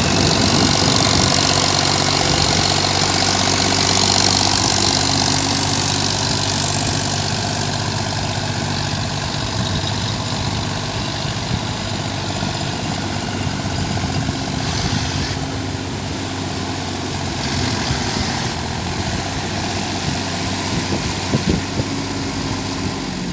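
Sonalika RX 42 tractor's diesel engine running steadily while it works a 2.5 m rotavator, with a dense rushing noise from the machinery over the engine note. The sound grows gradually fainter.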